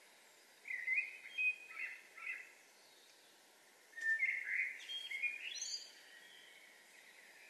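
A songbird singing two short phrases, one about a second in and one about four seconds in, the second ending in a higher twitter. A steady faint hiss lies underneath.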